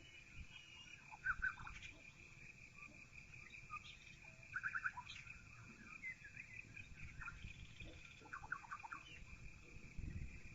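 Birds chirping faintly through a half-open window: short runs of quick repeated notes every few seconds, over a steady high-pitched tone and a faint low rumble.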